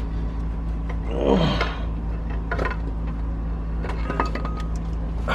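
A steady low mechanical drone with a few light clicks.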